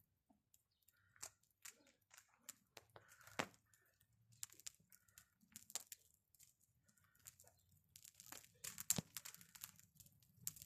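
Faint crackling of a burning bonfire: irregular sharp pops and snaps, becoming denser near the end.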